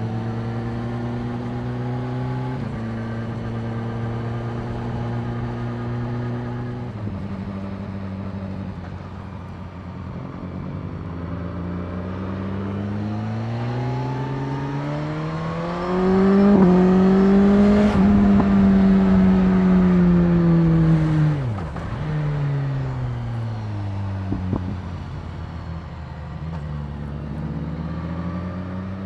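BMW S1000R inline-four engine under way: steady running with two drops in revs early on, then the revs climb steadily and it gets markedly louder for about five seconds at high revs. The throttle is then shut and the revs fall away sharply, and they rise again near the end.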